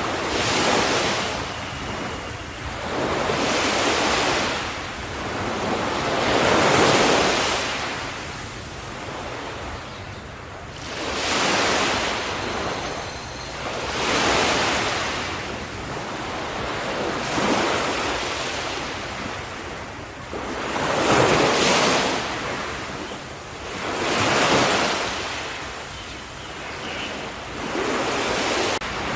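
Ocean waves breaking on a shore: about nine surges of surf, one every three seconds or so, each swelling up and then washing back.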